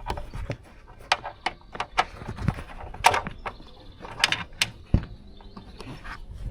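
Irregular sharp clicks and knocks of a 10 mm spanner being worked on a bolt on a car's body.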